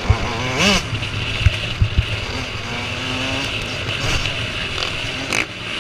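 Motocross bikes racing on the track, engines revving up and down, with one bike's engine rising and falling sharply just before a second in. A few short low thumps sound through it.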